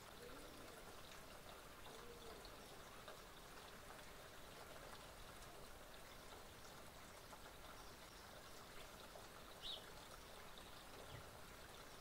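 Near silence: a faint steady hiss of background noise, with one brief high chirp from a bird near the end.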